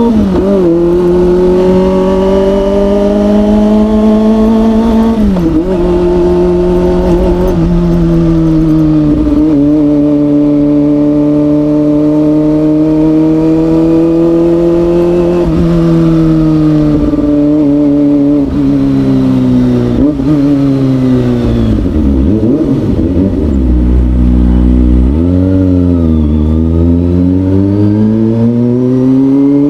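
Kawasaki ZX25R's inline-four engine with an Orion aftermarket exhaust, under way: it holds a steady pitch, drops sharply about five seconds in as it shifts up, then winds down slowly over several seconds as the bike slows. It wavers low for a few seconds before the revs climb steadily again near the end.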